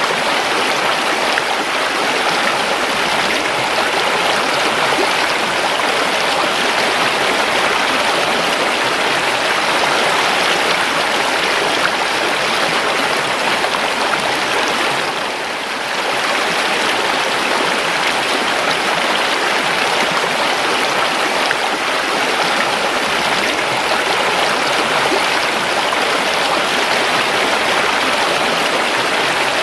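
River water flowing steadily, an even rushing and babbling of a stream, with a brief dip in level about halfway through.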